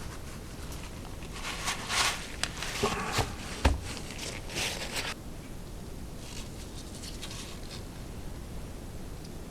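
Rustling and crinkling of a cut-open oil filter's pleated paper element being handled and squeezed, with a single knock about three and a half seconds in; quieter handling follows.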